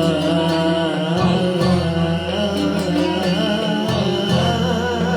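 Malouf ensemble music: a drawn-out, wavering sung line with instrumental accompaniment over a steady low tone.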